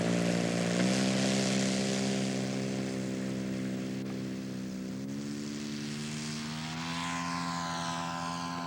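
A radio-controlled scale model airplane's propeller engine running steadily. Its pitch steps up slightly about a second in, again about five seconds in and once more near seven seconds, while it slowly grows fainter.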